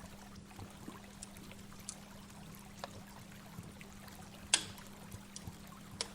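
Waterfall running and splashing, with scattered small drip-like clicks and one sharper splash about four and a half seconds in, over a faint steady low hum.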